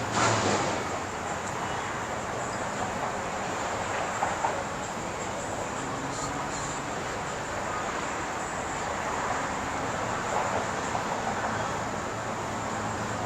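Steady background noise with no speech, broken by a couple of brief louder moments about four and ten seconds in.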